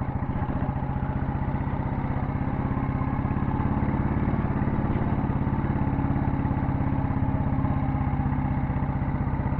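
Royal Enfield Bullet 350's cast-iron single-cylinder four-stroke engine running steadily under way, with an even, regular beat of exhaust pulses.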